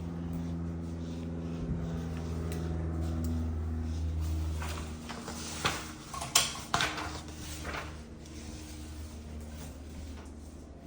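A steady low mechanical hum that fades out about halfway through, then a quick run of clicks and knocks from a door being handled, the loudest a sharp knock about six seconds in.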